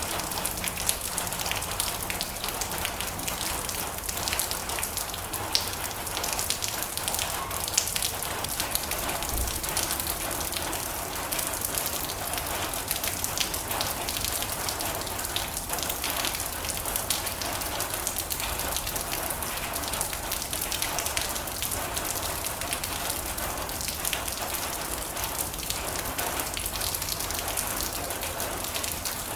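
Heavy rain drumming steadily on a metal roof, a dense hiss of countless small drop impacts.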